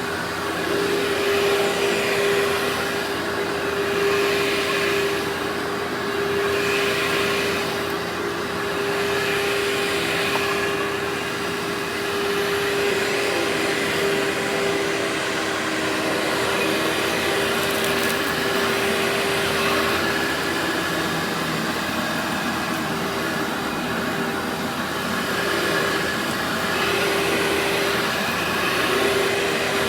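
Workhorse vacuum cleaner running steadily, its motor holding a constant hum over a rushing suction hiss that swells and eases every couple of seconds; the hum drops slightly in pitch for a few seconds midway.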